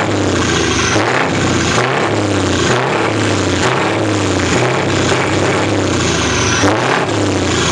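Scania truck engine revving, its pitch rising and falling.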